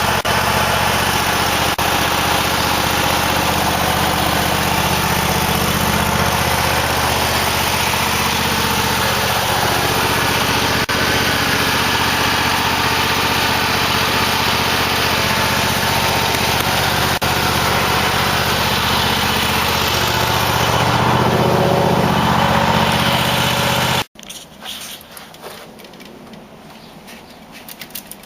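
Cub Cadet LT1050 lawn tractor engine running steadily, a little louder for a few seconds before it cuts off abruptly about 24 seconds in, leaving only faint background sounds.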